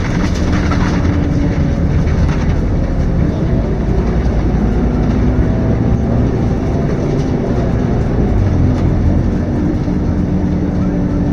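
Scania K230UB city bus's diesel engine running under way, heard from inside the passenger cabin, its note rising and falling a little as the bus pulls and eases off.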